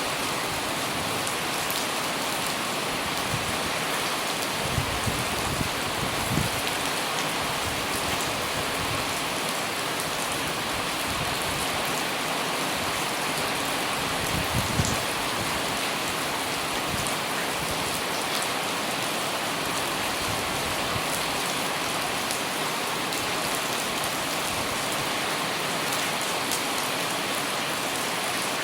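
Light rain falling on an umbrella overhead: a dense, even hiss, with a few soft low bumps about a fifth of the way in and again about halfway.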